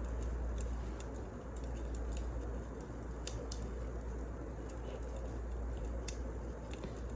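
Wood fire crackling: irregular sharp snaps and pops, a few a second, over a steady low hum.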